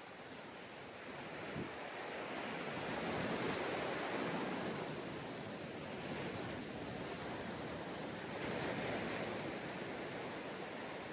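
Ocean surf washing onto a sandy beach, a steady wash that swells twice as waves break.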